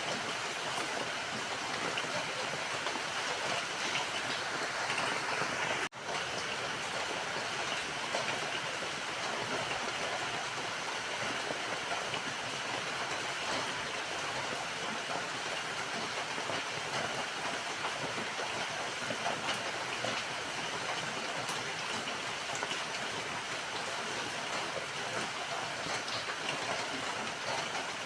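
Steady rain falling, an even hiss with a momentary cut about six seconds in.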